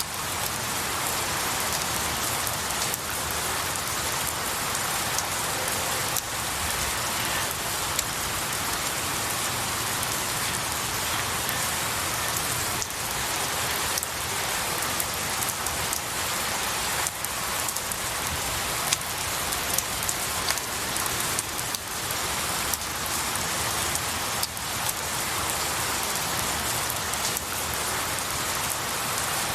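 Steady rain falling on pine needles and a tree, an even hiss with many distinct drop impacts and a few louder drips scattered through it.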